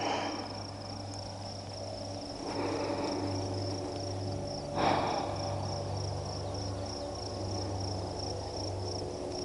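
Insects chirring in a steady, high-pitched, pulsing trill, over a low steady hum. Two soft breathy whooshes come about two and a half and five seconds in.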